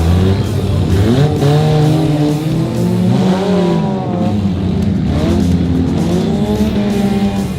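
Several demolition derby cars' engines revving at once, their pitches rising and falling over one another as the cars push and ram.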